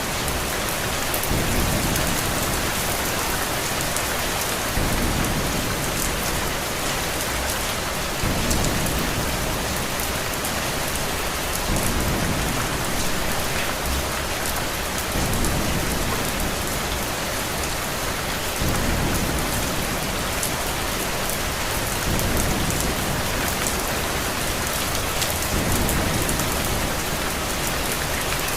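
Steady heavy rain hissing, with a low rumble that swells and fades roughly every three and a half seconds, evenly enough to sound like a repeating loop.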